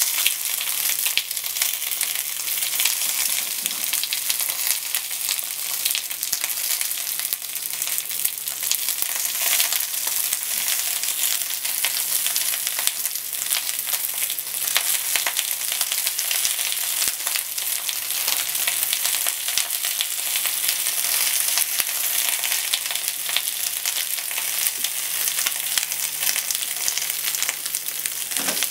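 Cabbage rolls sizzling as they pan-fry in a frying pan, a steady crackling hiss.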